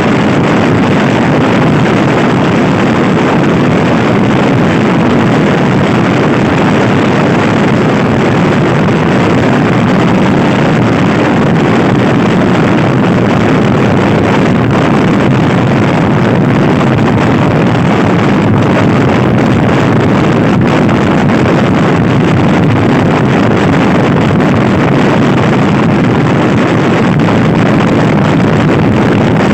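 Heavy wind noise buffeting the microphone as a Honda Scoopy i scooter is ridden hard, with the scooter's engine and road noise running underneath. The noise is loud and steady throughout.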